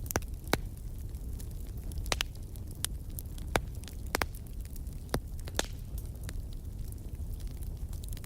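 Campfire burning: a steady low rumble of flames with irregular sharp crackles and pops from the wood, a few each second.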